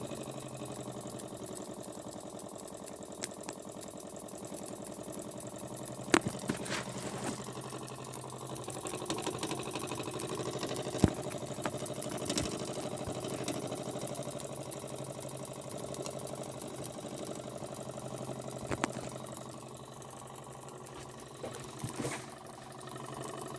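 Burnac Vulcan model toy steam engine running steadily under steam, a fast even mechanical clatter with a hiss, broken by a few sharp clicks.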